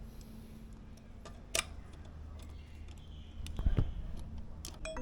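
A few sharp clicks and a couple of dull knocks, as of small tools or parts being handled, over a low steady hum.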